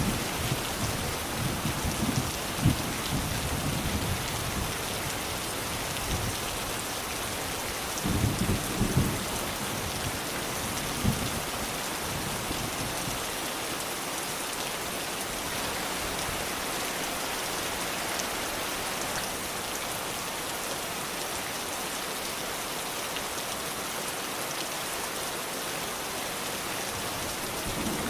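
Steady rain falling, with low rumbles of thunder through the first few seconds and again about eight seconds in, then rain alone.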